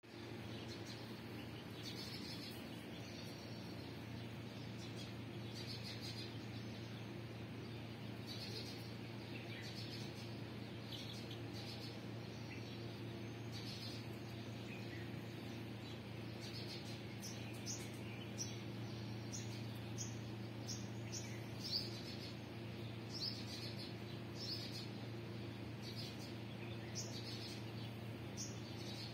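Small birds chirping: short high-pitched chirps, scattered at first and coming more often in the second half, over a steady low hum.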